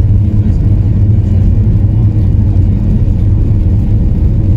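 Cabin noise inside a Boeing 737-800: a loud, steady low rumble of engine and air noise.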